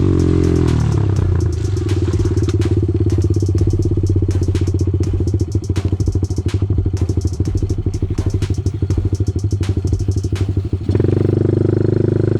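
Pit bike's small single-cylinder engine: the revs fall away at the start, then it chugs along at low revs with many sharp clicks and knocks, and it revs up again near the end.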